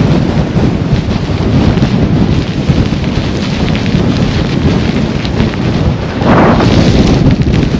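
Blizzard wind buffeting the microphone, a loud steady rumble that swells in a stronger gust about six seconds in.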